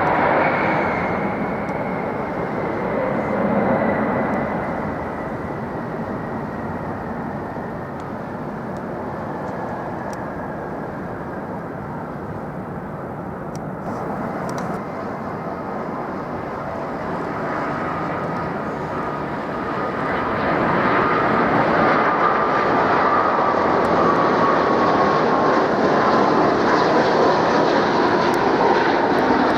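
Jet airliner engines: a steady rush with a high whine that slowly falls in pitch, growing louder about two-thirds of the way through.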